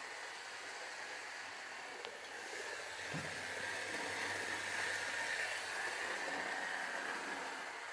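Lima model train locomotive's small electric motor whirring as it runs slowly on the lowest current setting, growing louder a couple of seconds in and easing off near the end.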